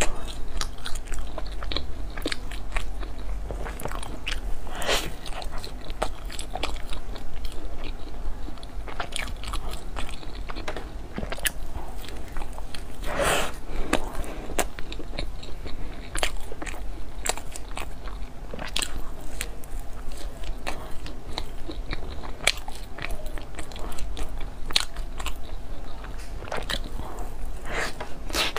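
Close-up biting and chewing of soft pork floss bread: wet mouth clicks and smacks throughout, with a louder bite about thirteen seconds in.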